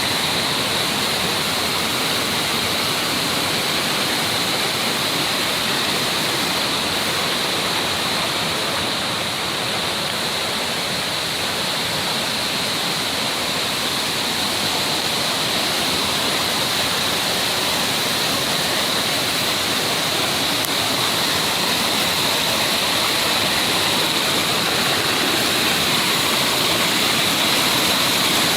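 Mountain stream rushing and splashing over rocks, a steady, unbroken water noise with a bright hiss.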